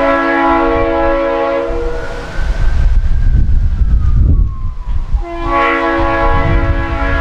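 Diesel locomotive's multi-chime air horn sounding a chord in two long blasts. Between them, about two seconds in, comes a few seconds of heavy low locomotive rumble with a thin tone gliding up and back down.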